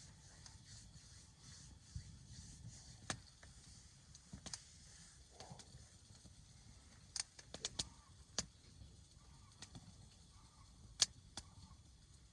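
Wood campfire crackling: scattered sharp pops and snaps at irregular intervals, with a cluster of them around the middle, over a faint steady background.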